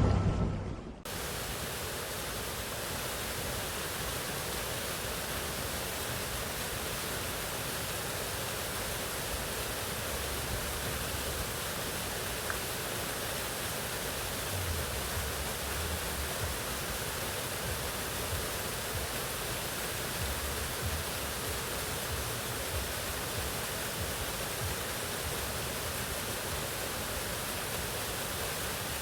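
Mountain waterfall: a steady, even rush of falling water that does not change. Music fades out about a second in.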